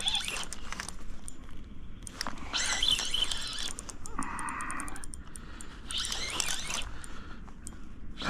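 Spinning reel being cranked while a hooked smallmouth bass is fought in on a crankbait, with irregular bursts of splashing water.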